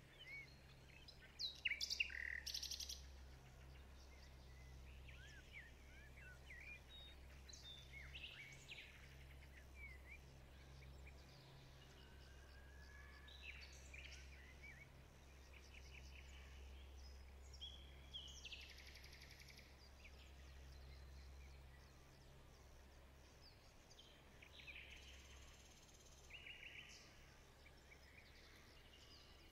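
Faint birds chirping and calling in short, scattered calls, with a few sharp clicks about two seconds in and a low steady hum underneath.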